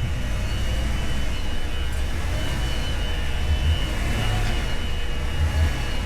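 Chevy Tahoe's engine and drivetrain running at low speed under load: a steady low rumble as the full-size SUV creeps out of an underground garage, with a faint steady high tone above it.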